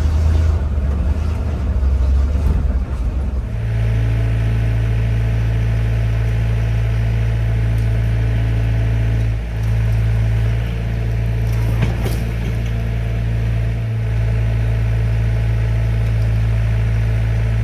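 1972 Chevrolet C50 dump truck engine running. It is uneven for the first few seconds, then settles about three and a half seconds in to a steady, low, even pitch.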